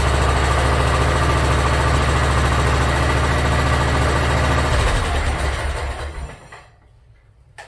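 Yard Machines riding mower engine running steadily and running well. About five seconds in it is shut off and winds down to a stop, followed by a single click near the end.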